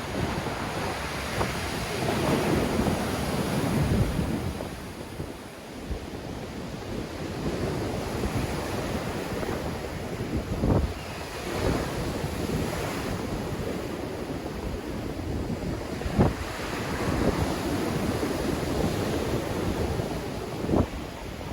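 Sea waves breaking and washing on the shore in strong wind, with wind buffeting the microphone; a few sharp splashes or gusts stand out.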